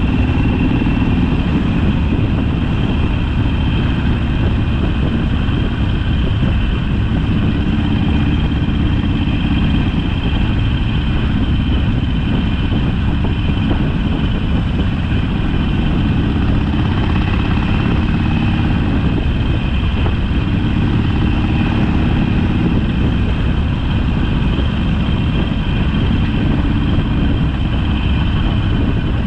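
Harley-Davidson Sportster's air-cooled V-twin engine running steadily on the road.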